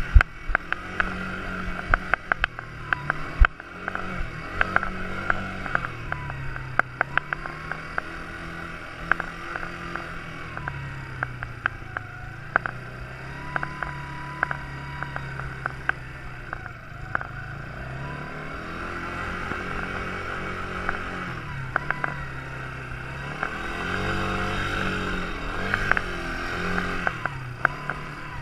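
Quad bike engine running, its revs rising and falling again and again, with many sharp clicks and knocks over the top.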